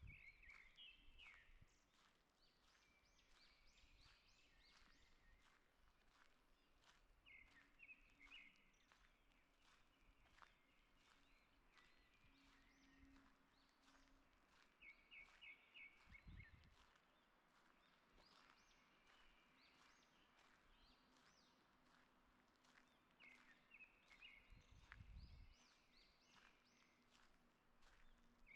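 Faint forest birdsong: several songbirds chirping in short, quickly repeated phrases, with two brief low thumps, one about halfway through and one near the end.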